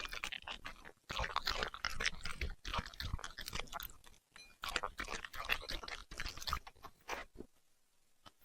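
A puppy chewing and crunching food close to the microphone: quick, crisp bites in runs, with brief pauses and a quiet stretch near the end.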